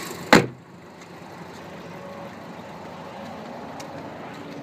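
A single loud slam of a car panel about a third of a second in. After it the Audi TT's turbocharged 2.0-litre inline-four idles on, quieter and muffled.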